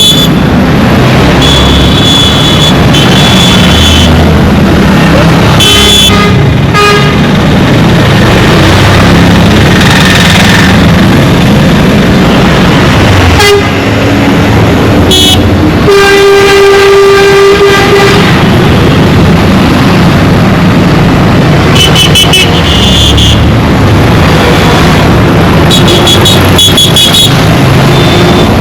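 Dense road traffic: engines running in a constant rumble with vehicle horns honking again and again. One long horn blast comes just past halfway, and there are shorter toots and quick repeated beeps near the start and end.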